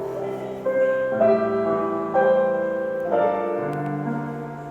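Piano accompaniment to a worship song, playing sustained chords between sung lines, with a new chord struck about every second.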